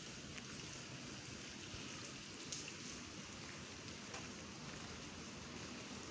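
Steady rain falling, with a few sharper drop taps now and then.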